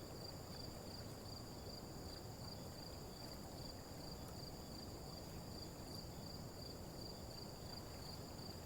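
Faint, steady chirping of crickets, a fast even pulse high in pitch, over a low hiss.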